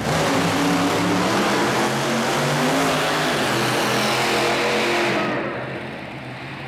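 Monster truck engine running at full throttle, loud and steady, then backing off about five seconds in.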